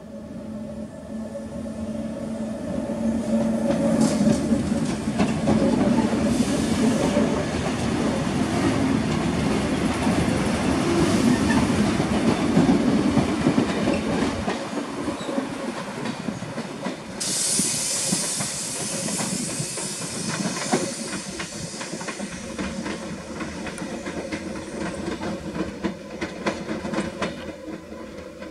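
A CPTM Série 1700 electric multiple unit passing close by, its wheels clicking over rail joints with a steady hum underneath. The sound builds over the first few seconds, stays loud to about halfway, then fades as the train runs off. A sharp hiss sets in a little past halfway.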